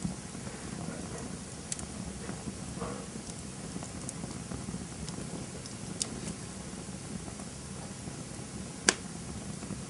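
Campfire burning, a steady low rush broken by scattered sharp crackles and pops; the loudest pop comes near the end.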